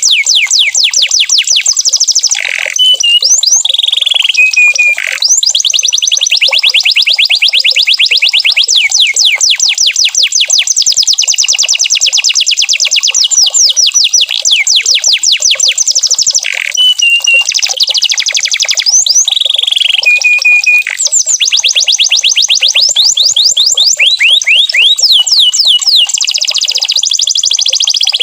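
Domestic canary singing nonstop in long, rapid rolling trills, broken a few times by brief held whistled notes.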